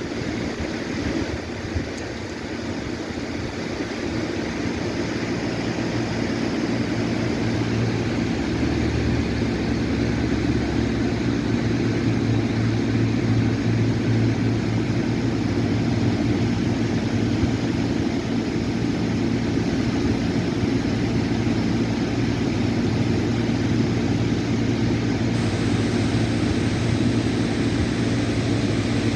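Steady low engine drone, building a little over the first several seconds and then holding level.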